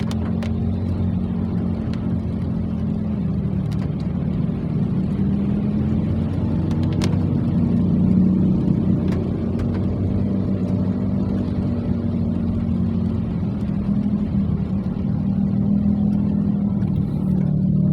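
A steady low engine hum that wavers a little in pitch, with a few faint ticks.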